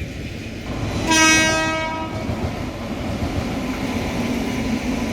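Express train running with a steady rumble. Its horn sounds once, a single blast of about a second, a second in.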